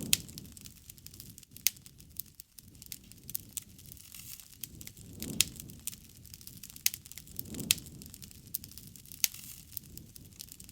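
Wood fire (bonfire) crackling, with irregular sharp pops and snaps over a soft low rush of flame that swells a few times.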